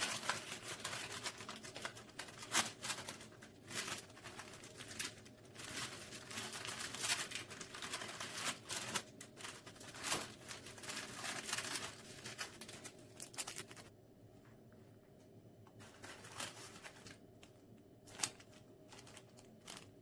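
Rustling and crinkling handling sounds, dense for about the first fourteen seconds, then a quieter stretch with a few scattered sharp clicks.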